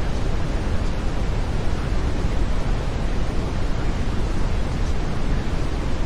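Steady brown noise: an even, deep rushing hiss, heaviest in the low end, with no change in level.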